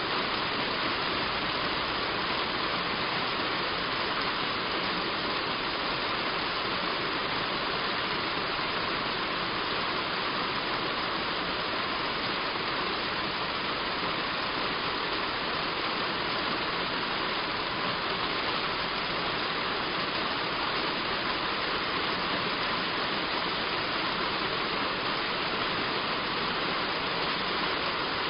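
Heavy rain falling on a roof: a dense, steady hiss with no letup.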